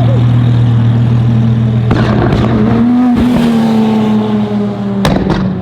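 Loud car engine held at high revs with a steady tone, the pitch stepping higher about two seconds in; two sharp cracks near the end.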